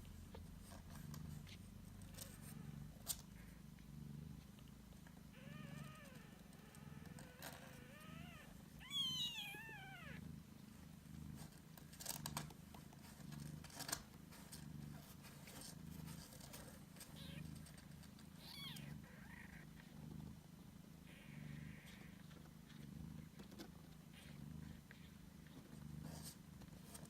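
Cat purring softly in a steady rhythm, about one pulse a second, while four-day-old British Shorthair kittens nurse; a few high, wavering kitten mews break in, the loudest a falling cry around nine seconds in, with a few sharp clicks.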